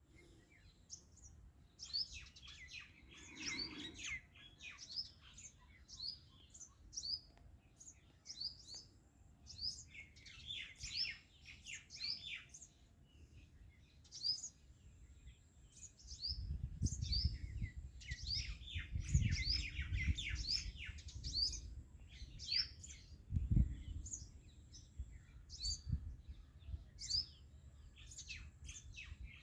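Many small birds chirping and twittering, with overlapping calls in dense bursts, as from a flock. From about halfway through, a low rumble and a few dull thumps sit under the calls.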